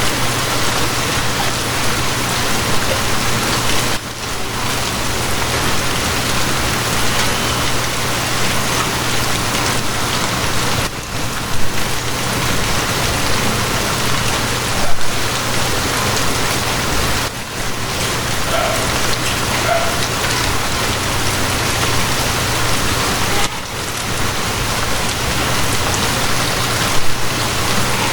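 Steady heavy rain falling, an even hiss with a few louder splashes, over a steady low hum.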